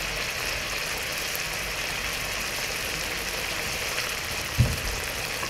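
Onion paste sizzling steadily as it fries in hot oil in a wide pan, with a single dull thump about four and a half seconds in.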